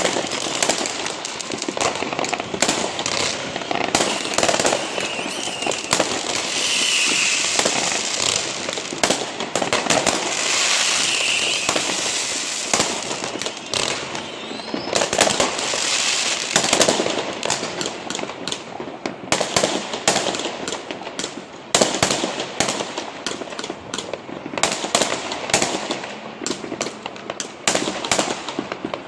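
Many fireworks and firecrackers going off at once: a dense, unbroken crackle of bangs and pops, with sharp loud cracks thick throughout.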